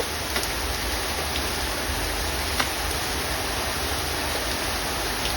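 Heavy rain falling steadily, an even hiss with a few sharp drop hits close by.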